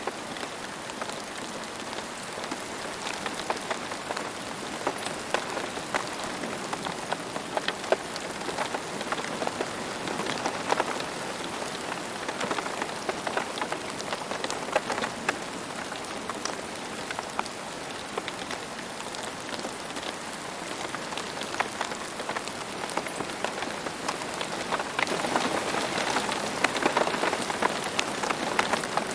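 Steady rain falling, with many individual drops pattering on a hard surface; it grows a little heavier near the end.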